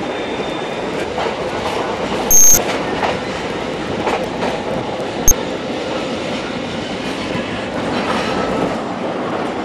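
Narrow gauge train running along the track, its wheels clicking over the rail joints over a steady rumble. A brief, very loud high-pitched screech about two and a half seconds in, and a single sharp click a few seconds later.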